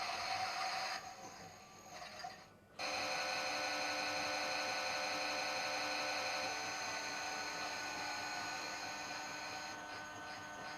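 Washing machine running with a steady whir of several held high tones. It dies away for about two seconds near the start, then cuts back in abruptly, and a fast pulsing sets in near the end.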